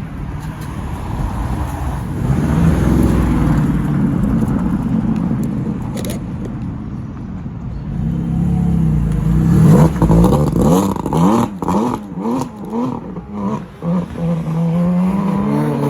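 Supercar engine running as a car pulls away, then the throttle blipped about five times in quick succession, the revs rising and falling, before a longer rise in revs near the end.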